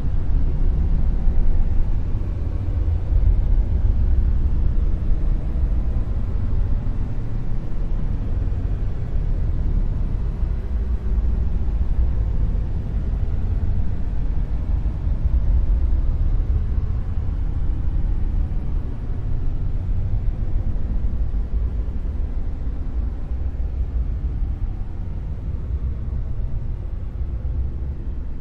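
Dark noise: a deep, steady rumbling hiss, heavy in the bass with little high end, easing off slightly near the end.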